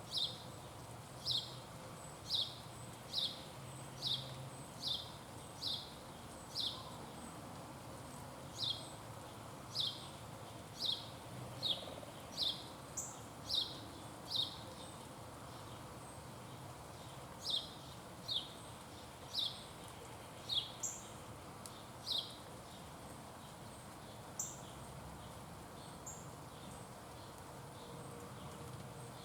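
A songbird repeating a short, high, downslurred whistled note about one and a half times a second, in three runs with pauses between them, and a few higher, briefer notes near the end.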